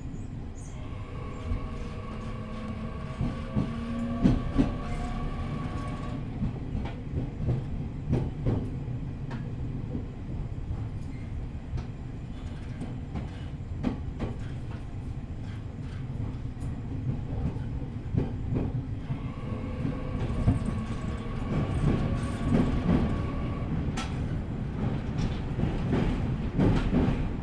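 JR East E501 series electric train running slowly under a strong-wind speed restriction, heard from inside the car: a steady running rumble with wheels clicking over rail joints. A steady whine from the traction motors sets in about a second in, drops away around six seconds, and comes back a little before twenty seconds for a few seconds more.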